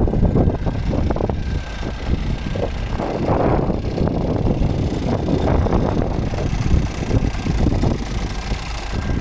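Scania R450 truck's diesel engine idling, with wind buffeting the microphone.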